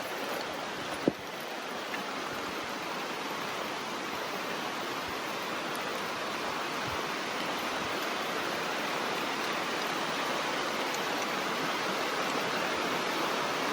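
Heavy rain pouring steadily onto the forest and its very large leaves, an even hiss. A single sharp knock stands out about a second in.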